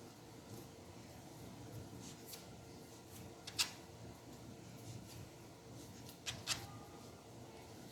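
Faint sounds of noodle dough being kneaded by hand, with a few short knocks on the work surface: the loudest about three and a half seconds in, two more close together near the end. A steady low hum runs underneath.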